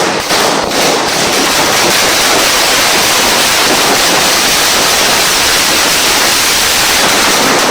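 A 600-cracker bijili wala, a chain of small Indian firecrackers, bursting: hundreds of pops run together into one loud, continuous crackle.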